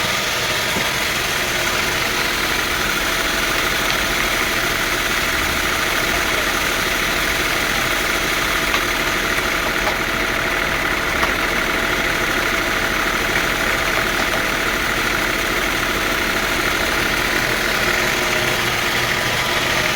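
Sawmill machinery running steadily: a constant motor drone under an even high hiss, with no change in pace.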